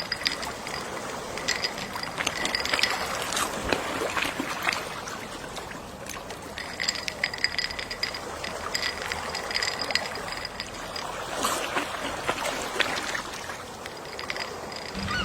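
Gentle sea waves washing ashore, swelling and ebbing twice, the wash full of small crackles.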